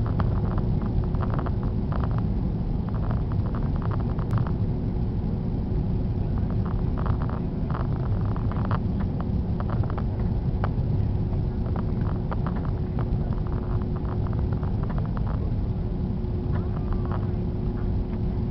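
Steady low rumble of an Airbus A330's engines and airflow heard from inside the passenger cabin, with a thin steady hum over it.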